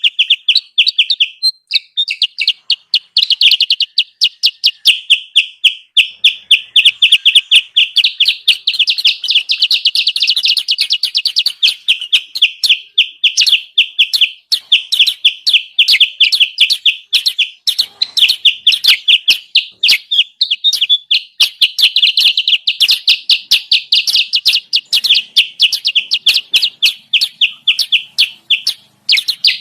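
Kutilang sutra bird-lure call: a continuous, rapid run of sharp chirps, several a second, all at much the same high pitch with no pauses, the kind of busy chatter played to draw wild birds down.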